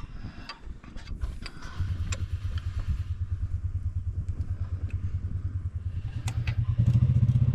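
A few light clicks and clatters, then a tractor engine running with a steady pulsing beat that grows louder about seven seconds in.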